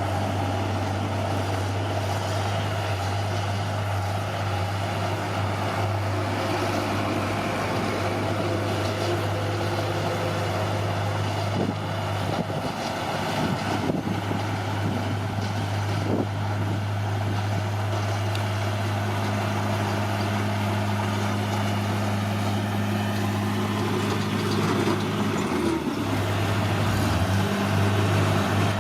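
Heavy diesel engine of an earthmoving machine running steadily, with a few short metallic knocks partway through. Near the end the engine note briefly changes.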